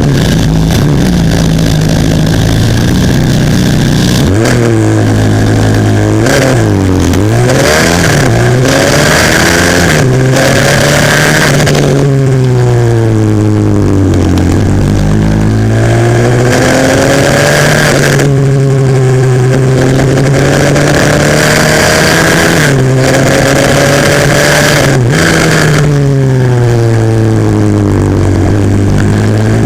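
140cc single-cylinder four-stroke pit bike engine heard from onboard while racing: the revs climb, drop sharply at each gear change, and fall and rise again through braking and corners, over and over.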